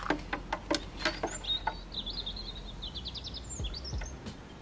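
A small bird chirping and trilling in the background, with a few light clicks and taps in the first second and a half.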